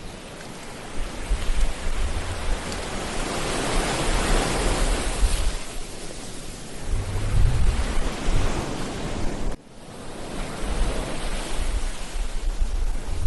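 Ocean waves breaking and washing onto a beach, swelling to a peak about four seconds in, with a low rumble coming and going underneath. The sound cuts out for an instant a little over nine seconds in, then comes back.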